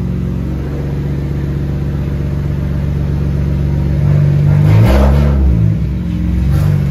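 BMW coupe's engine running at low revs, then rising and falling in pitch about five seconds in as the car is driven up onto wooden blocks under its front wheels.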